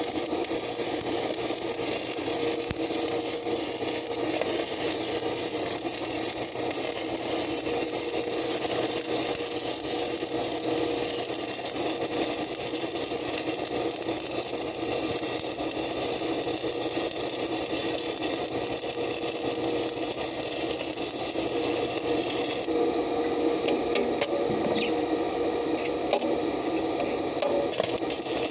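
Stick (arc) welding with 6011/7018 electrodes: the arc crackles and sizzles steadily throughout, over a faint steady hum.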